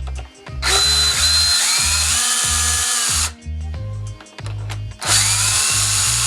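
Power drill running in two bursts, each a whine that rises as the motor spins up and then holds: the first about two and a half seconds long, the second about a second. It is backing out a stubborn handlebar-end weight screw. Background music with a steady bass beat plays underneath.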